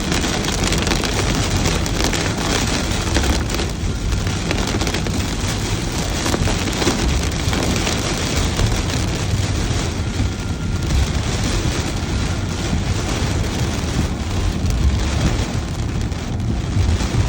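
Steady rain over the constant low rumble of a car driving.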